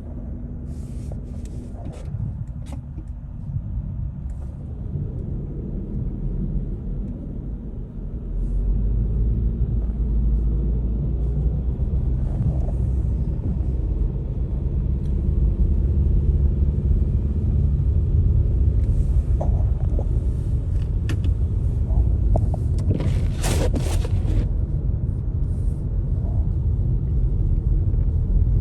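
A car moving on a road: a steady low rumble of road and engine noise that grows louder about eight seconds in and then holds, with a few brief scraping sounds about twenty-three seconds in.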